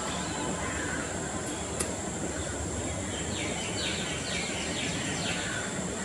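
Steady outdoor background rumble and hiss with a thin high whine. About halfway through, a small bird gives a quick run of short chirps.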